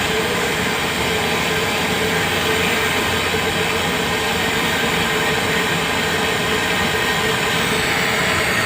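A machine running steadily, a continuous mechanical noise with a constant hum.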